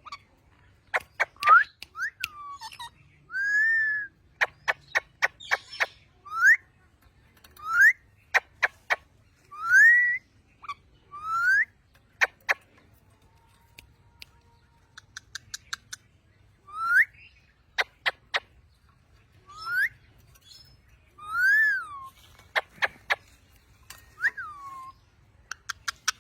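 Pet parrot giving short rising whistles, about a dozen spread through the stretch, mixed with quick runs of sharp clicks.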